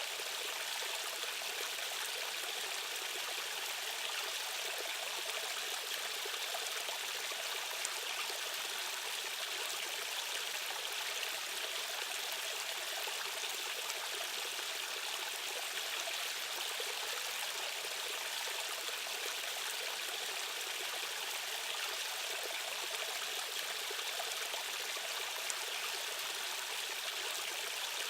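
Rushing stream water, a steady even hiss of fast current with little low rumble.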